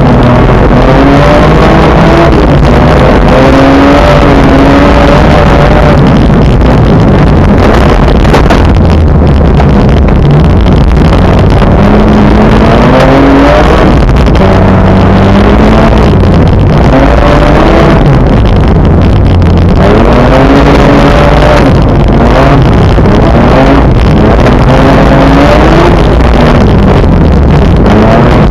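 Car engine driven hard through the gears, its pitch repeatedly climbing under acceleration and dropping at each shift, over a steady rush of road noise; very loud.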